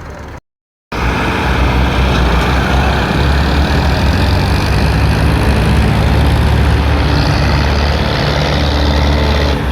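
Tractor engine running loud and steady with a heavy low rumble, cutting in abruptly about a second in after a brief gap.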